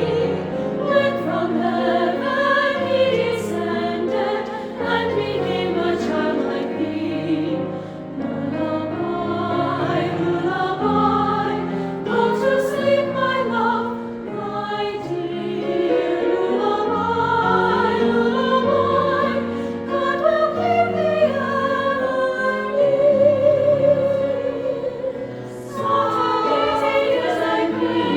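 A choir singing in long, sustained phrases, with brief dips between phrases a few times.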